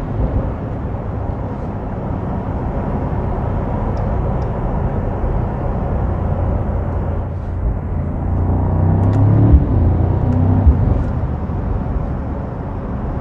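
2022 Mercedes-AMG SL 63's twin-turbo V8 running while driving, with steady road and tyre noise in the cabin. The engine tone swells about two-thirds of the way through, and there are two short thumps.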